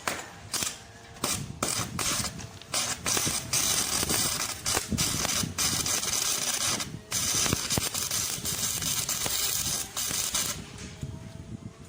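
Electric arc welding: a crackling hiss in several short bursts over the first few seconds, then two longer steady runs that stop about ten and a half seconds in.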